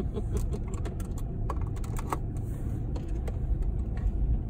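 Long freight train rolling past a railroad crossing, heard from inside a waiting car: a steady low rumble with a scatter of sharp, irregular clicks and clacks.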